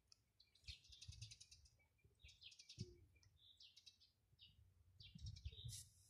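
Faint small-bird chirping: short high calls and quick rapid trills repeating every second or two, over faint low rumbles.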